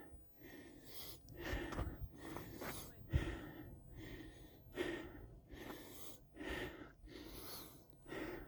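A hiker breathing hard while climbing, rhythmic breaths about one a second.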